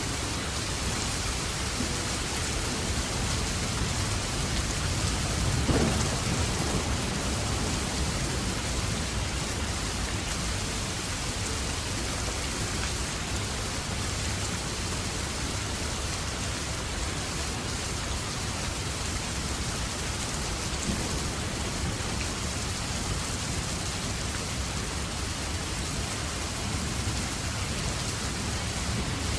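Steady rain falling, an even dense hiss with a low rumble underneath; a brief louder swell about six seconds in.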